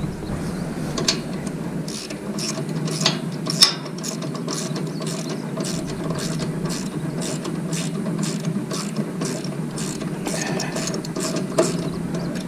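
Hand ratchet wrench clicking as nuts are tightened down: a few scattered clicks at first, then a steady run of about two to three clicks a second.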